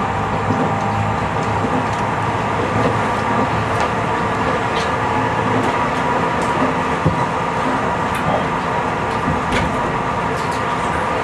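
Tobu 50090-series electric train running at speed, heard from inside the car: a steady rumble of wheels on the rails with a few faint steady tones and occasional sharp clicks.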